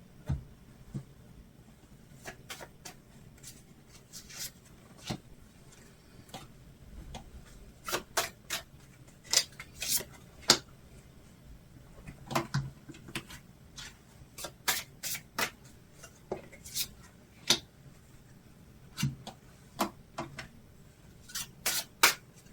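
Tarot and oracle cards being shuffled and drawn by hand: irregular sharp card snaps and taps, coming in clusters.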